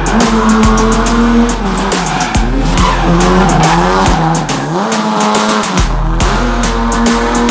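Drift car engine revving up and down, with tyres squealing as it slides. Rock music plays along with it.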